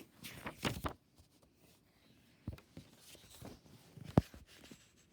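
Quiet handling noises in a small room: a few soft clicks and taps, the sharpest about four seconds in.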